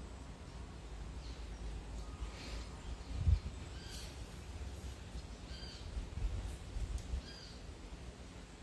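Outdoor ambience of several short bird calls, repeating every second or two, over a low rumble, with a single thump about a third of the way in.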